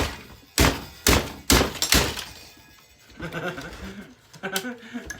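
Five hard blows on a boombox's plastic casing, about half a second apart, then one weaker knock near the end, as the jammed, dusty tape deck is forced.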